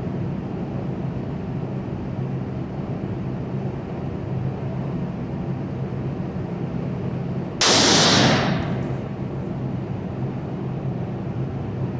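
A single loud gunshot about two-thirds of the way in, sudden, with a short ringing tail, over a steady low hum.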